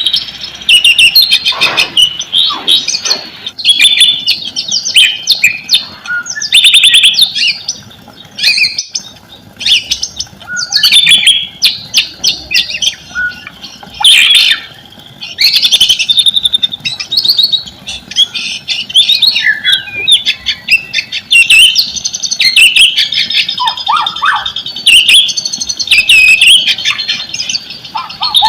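White-rumped shama (murai batu) singing a loud, fast, varied song of whistles and chirps broken by sharp clicking notes: a bait song recording used to set captive shamas singing.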